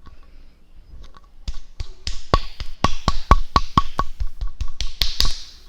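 Hand clapping from one or two people, sharp claps about four a second, starting about a second and a half in and stopping near the end.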